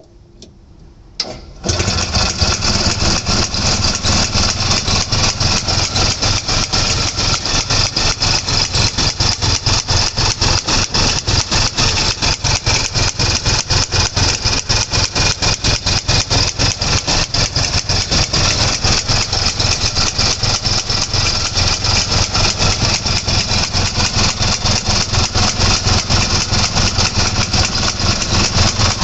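Daihatsu Midget MP4's single-cylinder two-stroke engine starting about a second and a half in, then running steadily with a quick, even beat.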